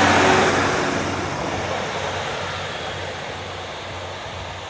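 Northern Class 150 diesel multiple unit moving off, its rush and rumble fading steadily as it draws away.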